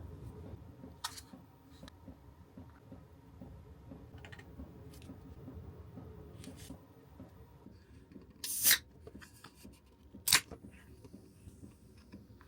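Handling noises over a low rumble: scattered faint clicks, then a short, sharp noise about eight and a half seconds in and a brief click about ten seconds in.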